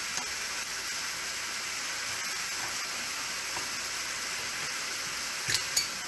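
Beef and vegetable stir-fry sizzling steadily in a hot wok, with a couple of light clicks near the end.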